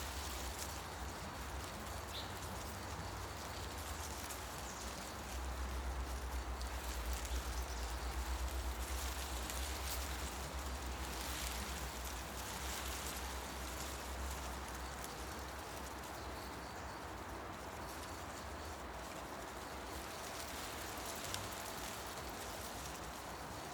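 Wind moving through tree leaves in a forest: a steady rustling hiss, with a low rumble that swells for several seconds in the middle and then eases. A single short bird chirp about two seconds in.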